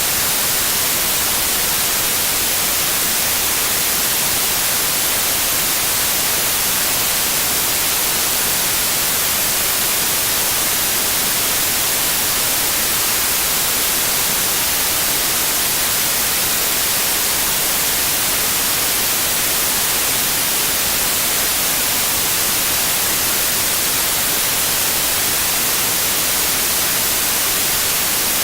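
Steady white noise: a constant, even hiss, strongest in the treble, that does not change.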